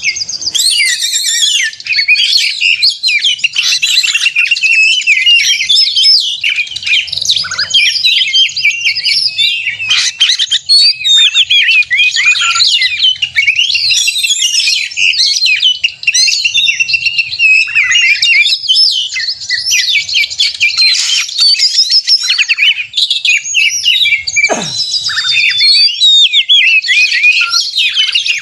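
Oriental magpie-robin (kacer) singing without a break: a loud, fast, varied stream of high whistles and trills. It is the excited 'gacor narung' fighting song used as a lure to set other magpie-robins singing.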